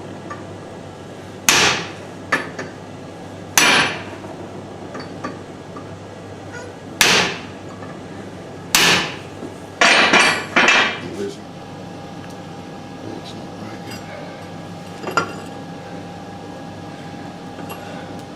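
Hand hammer striking stainless steel in single irregular blows, about nine in all, with a short quick run of three near the middle.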